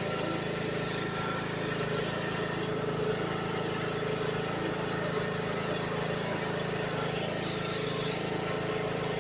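Small tractor engine running steadily at idle.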